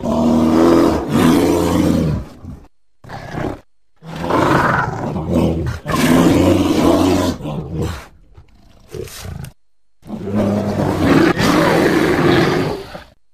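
Brown bear film sound effects: three long, deep roars with short snarls between them, each cutting off abruptly where it was edited.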